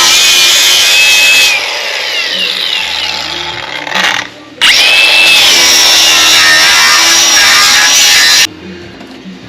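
Angle grinder with a flap disc grinding down welded sheet-metal seams in short passes: a high whine over harsh grinding runs for about a second and a half, then winds down. About four and a half seconds in it starts again, the whine dipping then steadying as the disc bites, and stops suddenly near the end.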